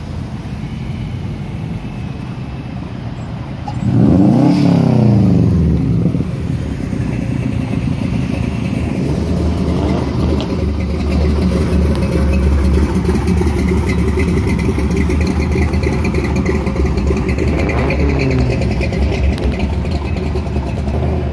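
Cars driving slowly past in a line. One engine revs hard and falls away about four seconds in, the loudest moment. From about eight seconds a deep, steady engine rumble comes from a classic 1950s Chevrolet rolling by. A smaller rev follows near the end.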